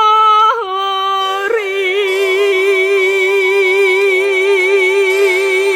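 A woman singing the closing words of a slow Korean ballad, ending on one long held note with steady vibrato. Two quick pitch steps come in the first second and a half, then the note is held to the end.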